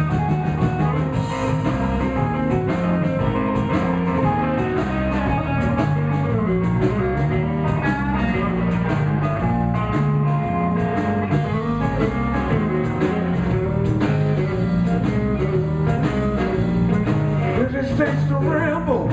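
Live blues band playing an instrumental break with lead guitar over a steady walking bass and drums.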